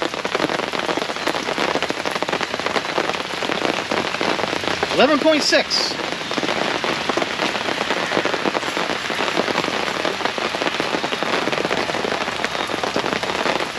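Heavy rain falling steadily on a pop-up canopy overhead, a dense even hiss of drops. About five seconds in there is one brief pitched sound.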